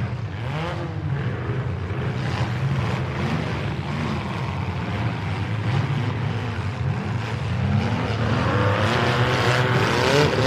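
Several demolition-derby mini truck engines running and revving together, their pitch rising and falling as the drivers accelerate. The revving grows louder and higher near the end.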